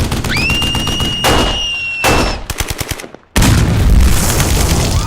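Rapid automatic gunfire, shot after shot in a dense stream, with a high whistling tone that rises and then holds through the middle. It cuts off abruptly about three seconds in and starts again loud a moment later.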